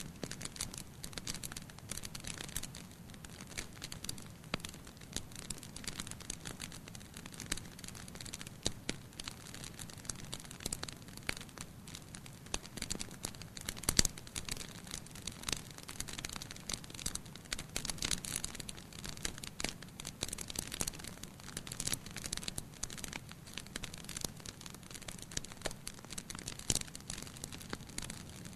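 Wood fire in a fireplace crackling, with a steady stream of small sharp pops and snaps and one louder pop about halfway through.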